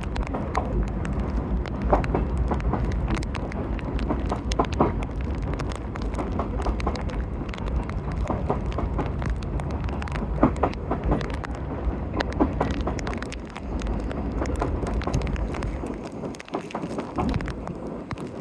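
CSX freight local rolling past: a steady low rumble of cars with scattered sharp clicks and clanks from wheels and couplers. The rumble drops away near the end as the train clears. Wind buffets the microphone.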